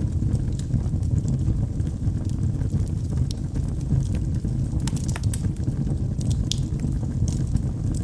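Wood fire burning in a fireplace: a steady low rumble of flames with scattered sharp crackles and pops from the burning logs, several close together about five to seven seconds in.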